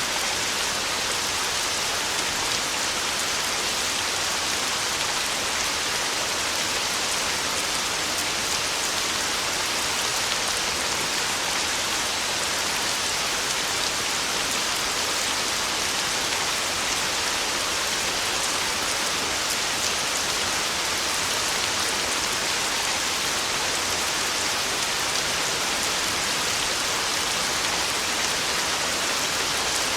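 Heavy rain pelting a tin roof, a steady, even downpour with no thunder.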